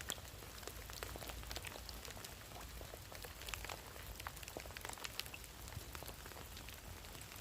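Rain falling: a soft, steady patter with irregular single drops striking close by.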